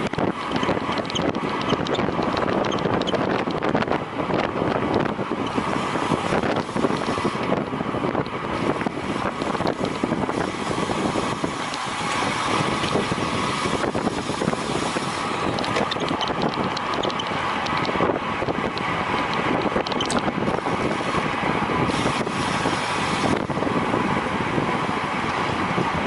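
Steady wind rush over the microphone of a camera carried on a bicycle ridden at racing speed, with the rolling noise of the bike underneath.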